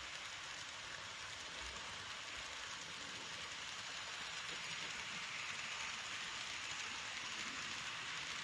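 N-gauge model train running on its track: a steady, fine rattling hiss of small wheels on rail, growing a little louder about halfway through.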